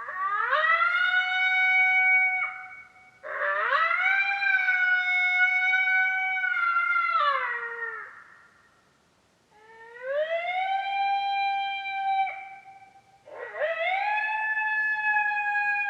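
Coyote howls played from an electronic predator call to bring in territorial coyotes. Four long howls, each sliding up, held at one pitch and dropping off sharply at the end; the fourth is still going at the end.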